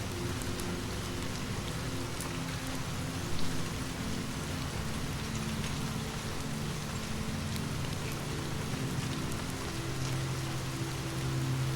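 Steady rain falling, with scattered sharp ticks and one louder pop about three and a half seconds in. A low steady hum runs underneath.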